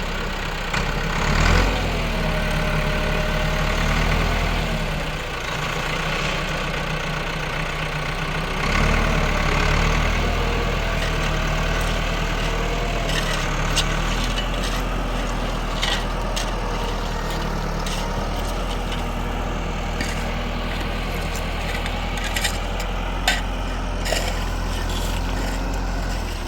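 Tractor engine running steadily, rising in load about 1.5 s in and again about 9 s in, with a wavering whine over it; light clicks and knocks in the second half.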